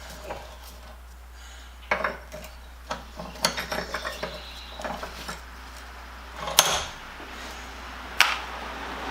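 Steel C-clamp pieces clinking and knocking against each other and hard surfaces as they are handled, in scattered light taps with two sharper clanks, about six and a half and eight seconds in.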